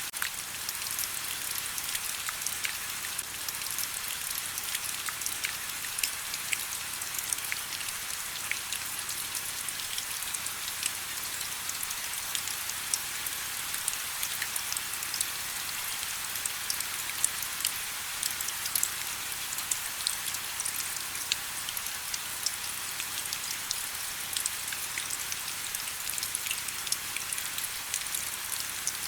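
Steady rain falling, an even hiss thickly dotted with the small ticks of individual drops landing on surfaces.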